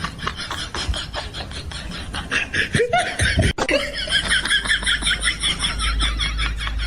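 Laughter in quick repeated bursts, breaking off suddenly about halfway through and starting again at a higher pitch.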